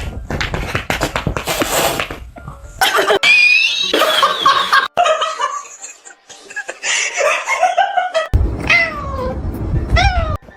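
Cats meowing and yowling in a string of short passages that cut off abruptly. Near the end come several drawn-out meows, each falling in pitch.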